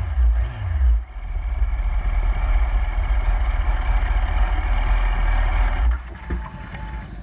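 Yamaha R1 inline-four engine running at low speed, with a short rev near the start. The sound drops sharply about six seconds in, leaving a quieter low rumble.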